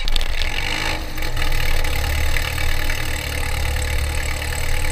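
Piper Cherokee 140's four-cylinder piston engine firing up after the starter, with a few uneven knocks in the first second or so, then running steadily at idle.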